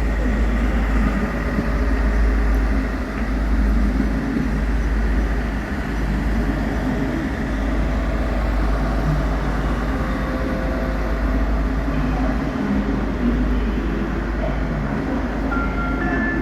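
Train running at a station platform with a steady low rumble. A few brief high tones come in near the end.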